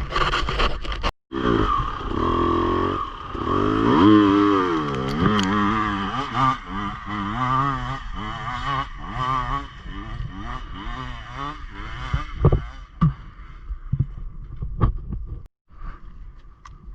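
Enduro motorcycle engine revving up and down under constantly changing throttle, with a few sharp knocks near the end.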